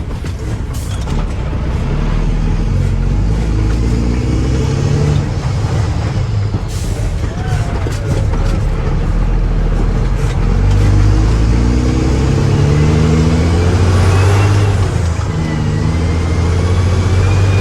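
Mack truck's diesel engine running and revving up twice, about two seconds in and again from about twelve seconds, with a short air hiss around seven seconds in.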